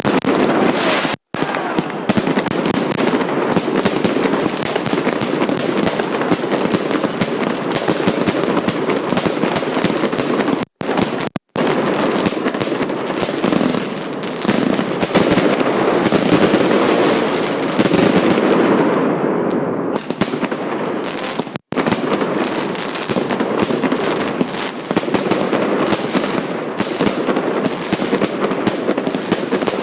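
Fireworks going off in a dense, continuous barrage of rapid crackling bangs, with the sound cutting out for an instant a few times.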